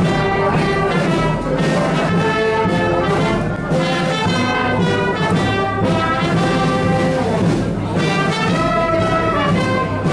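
Brass-led music playing a steady melody, with trumpets and trombones.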